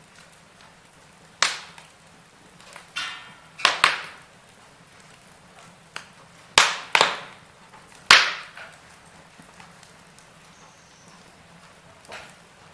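Wood fire burning in a fireplace, crackling: a handful of sharp, irregular pops from the logs over a faint steady hiss, the loudest about eight seconds in.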